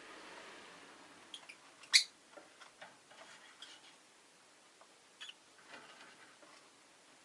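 Rosy-faced lovebird making short, scattered chirps and clicks, the loudest about two seconds in and another a little past five seconds.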